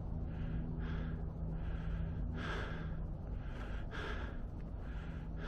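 A man breathing hard, in and out, winded from a steep climb. A steady low hum runs underneath.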